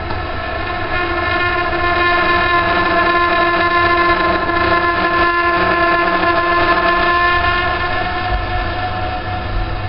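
Vaillant gas boiler making a steady droning tone with several overtones over a low rumble, getting a little louder about a second in. It is a noise the owner cannot trace to one part, but it goes away when the boiler's air inlet is altered.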